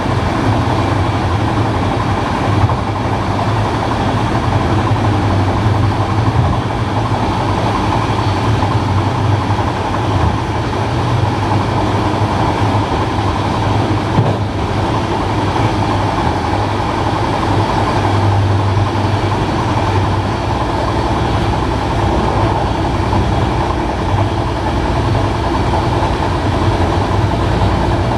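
Passenger railway coach running at speed on the track: a steady rumble of wheels on the rails with a low hum, and an occasional light knock.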